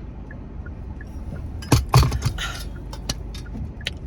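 Steady car-interior road rumble, with a quick cluster of sharp clinks and knocks about two seconds in and a few single clicks after.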